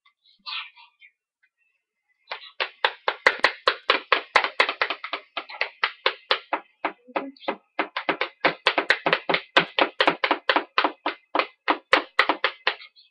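Hands striking in a fast, fairly even run of claps or slaps, about four a second, beginning about two seconds in and going on for roughly ten seconds.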